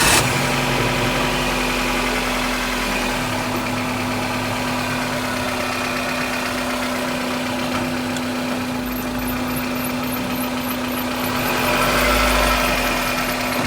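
Suzuki Cultus engine running steadily just after being started, with a steady hum. It grows a little louder about twelve seconds in, and a faint, fast repeating chirp comes in high up over the last few seconds.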